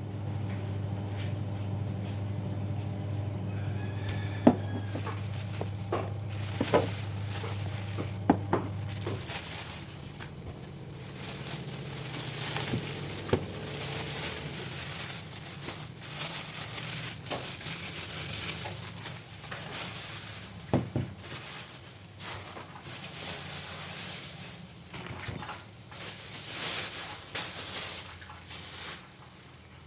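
Kitchen work sounds: dishes and utensils clinking and clattering. A steady low hum stops about nine seconds in, and an uneven hissing noise runs through the rest.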